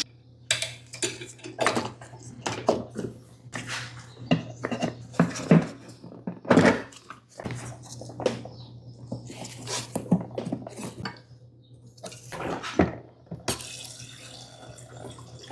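Hand work on a lawn mower: irregular clinks, knocks and clatter of metal tools and parts being handled, over a steady low hum.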